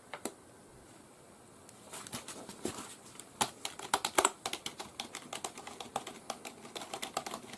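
Keys of a Logicool K275 wireless membrane keyboard being typed on in a quick, irregular clatter of clicks, starting about two seconds in after a single click.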